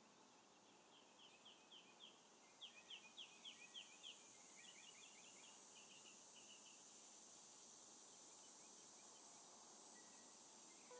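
Faint outdoor ambience: a bird calling in quick runs of short downward-slurred notes for several seconds, over a steady high hiss.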